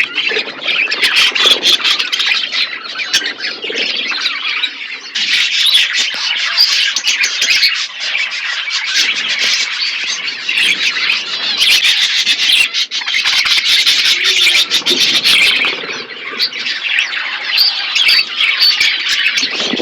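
Parrots chattering and squawking, a dense, continuous din of overlapping high calls and sharp clicks.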